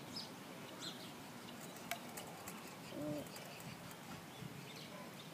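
Faint outdoor night ambience with scattered short high bird chirps. There is a single sharp click about two seconds in and a short, low two-note call about three seconds in.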